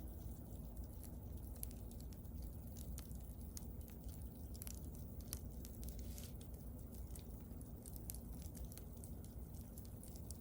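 Wood bonfire burning: a steady low rumble of flames with scattered sharp crackles and pops, and a brief hiss about six seconds in.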